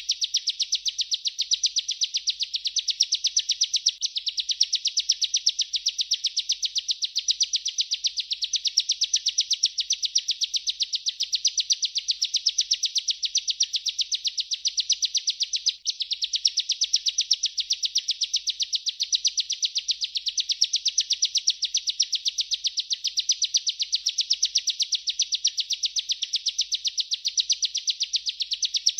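Bar-winged prinia (ciblek) singing a long unbroken rolling song: rapid, high, chirping notes repeated many times a second, with one brief gap about halfway through.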